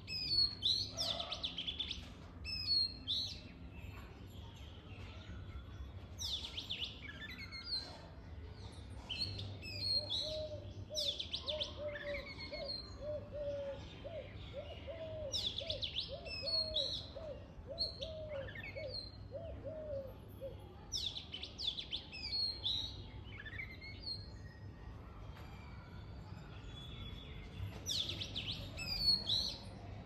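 Birds chirping in a tree: short clusters of bright, busy chirps every few seconds, and a steady run of low repeated notes at about two a second from about ten to twenty seconds in.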